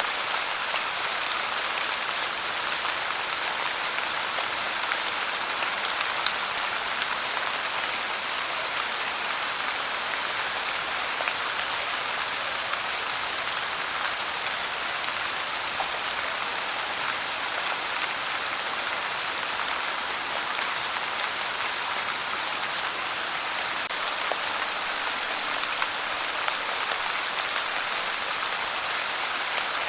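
Steady rain falling, an even hiss with dense small drop ticks and no thunder.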